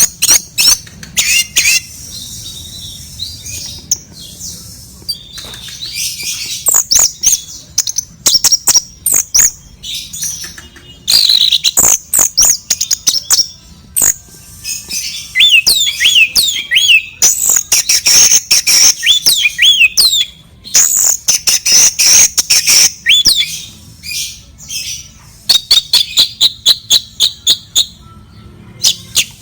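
Sooty-headed bulbul (kutilang) calling in quick gliding chirps and squawks, mixed with many sharp clicks and knocks.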